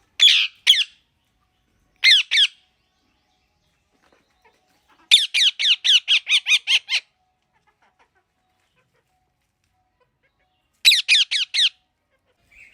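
Pet green parrot squawking in short groups of harsh, high calls: two at the start, two more about two seconds in, a rapid string of about ten around the middle, and four near the end.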